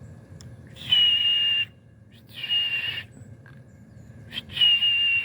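Three short breathy whistles, each under a second long, on a high steady note that dips slightly at the end, described as an irritating noise.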